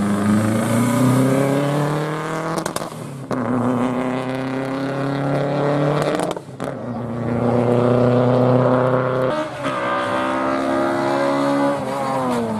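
Rally car engine accelerating hard through the gears. The note climbs, then drops briefly at each of three upshifts, about three, six and a half and nine and a half seconds in.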